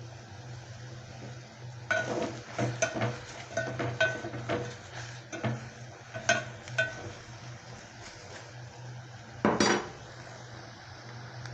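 Metal spoon stirring in a cooking pot and knocking against its side: a run of ringing clinks lasting about five seconds, then one louder, longer clatter near the end. A steady low hum runs underneath.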